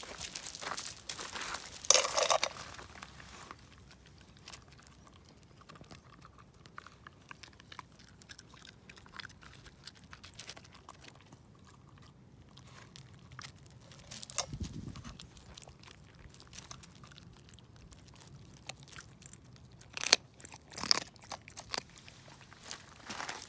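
Shiba Inu crunching and chewing raw chicken wing tips, the bone cracking between its teeth in irregular bouts, loudest about two seconds in and again near the end. A dull thump comes about midway.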